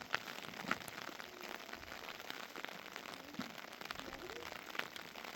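Steady heavy rain falling on the shelter, with many single drops striking close by as sharp ticks.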